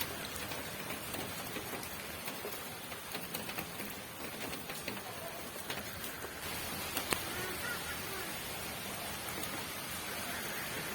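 Steady rain falling, with scattered individual drops ticking sharply, one louder drop about seven seconds in.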